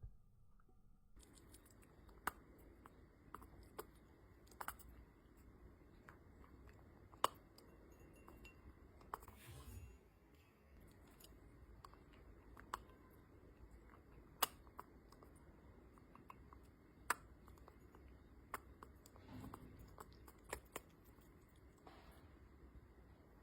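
Faint room tone with about a dozen sharp clicks at irregular intervals.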